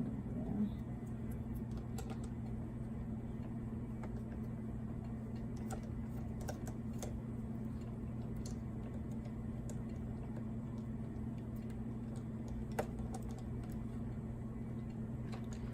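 Scattered small clicks and taps of a screwdriver and screws on a laptop's plastic case, over a steady low hum.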